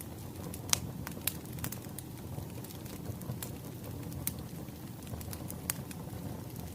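Wood fire crackling: a steady low rustle of burning logs with irregular sharp pops and snaps, the loudest about a second in.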